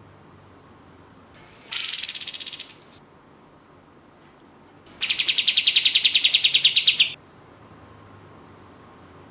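Kapas tembak (olive-winged bulbul) calling in two bursts of rapid, rattling high notes, about ten a second: a short burst about two seconds in and a longer one of about two seconds near the middle.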